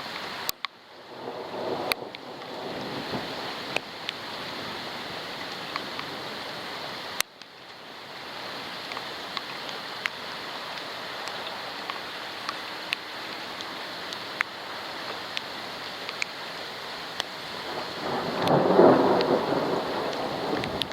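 Steady rain in a thunderstorm, with sharp ticks of drops hitting the waterproof camera's housing. The sound dips out briefly twice, and a louder swell comes near the end.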